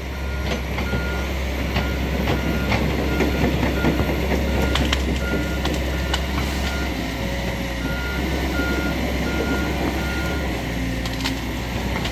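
Heavy vehicle's backup alarm beeping at an even pace, about two to three beeps a second, over a running engine, with a few knocks in the middle; the beeping stops near the end.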